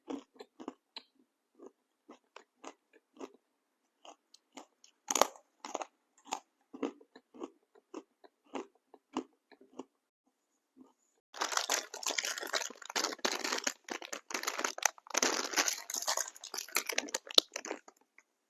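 Close-up chewing of a crunchy snack: a run of separate crunches, then from about eleven seconds in a denser, louder stretch of crackling.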